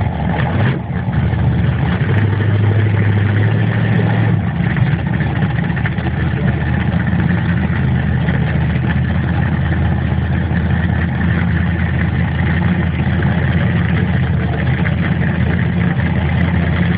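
Drag truck's engine idling loudly and steadily, its note slightly stronger for a couple of seconds near the start.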